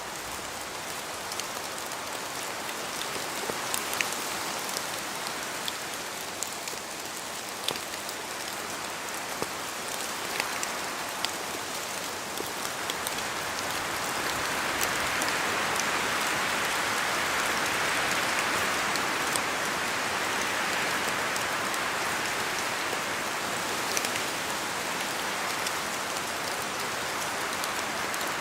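Steady rain falling in a forest, with scattered sharper drops landing close by. The rush of rain swells louder about halfway through and eases a little near the end.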